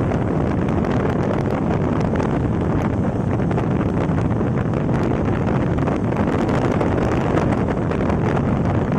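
Steady wind rush on the microphone of a KTM Duke motorcycle while riding, an even roar with no clear engine note standing out.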